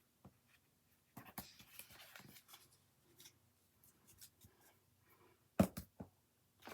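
Paper craft pieces handled and shuffled by hand, soft scratchy rustling, with two sharp taps close together near the end.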